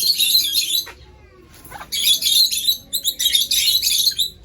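Parrots chattering and chirping in rapid, high-pitched bursts: one stretch of about a second, a short lull, then a longer stretch of chatter that stops just before the end.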